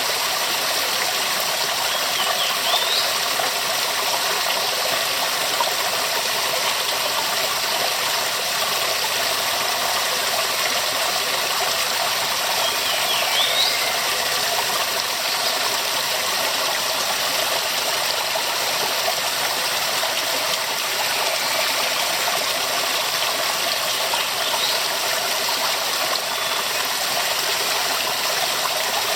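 Waterfall rushing in a steady, unbroken wash of water noise. A few brief high chirps sound over it.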